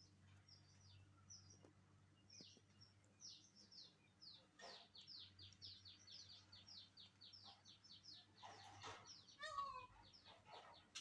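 Faint chirping of birds: many short, high, falling chirps, coming quickly in the middle, with one louder, lower falling call near the end.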